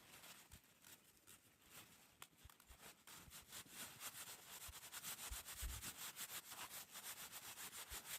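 Faint, quick, even scraping strokes, as of something being rubbed or sawn back and forth, growing stronger about three seconds in.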